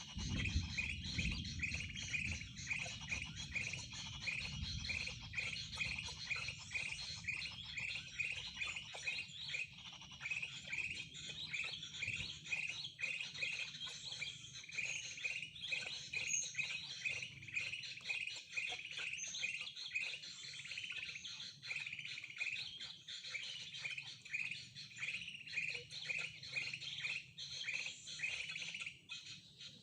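A bird chirping rapidly and steadily, short high notes repeated about three times a second without a break. A low rumble sits under the chirps for the first few seconds.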